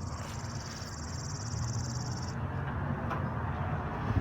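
Outdoor ambience: a steady low rumble, with a high, fast-pulsing buzz for about the first two seconds that stops abruptly.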